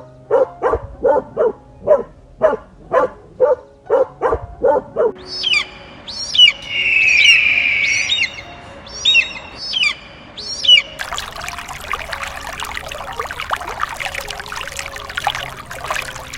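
Bird calls in three short clips: first a run of about fourteen short, evenly spaced pitched calls, about three a second; then high curving chirps with a louder warbling call; then about 11 s in a dense chattering chorus.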